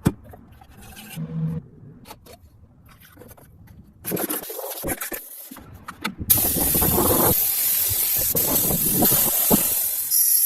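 Faint scraping and handling noises, then from about six seconds in a loud, steady hiss.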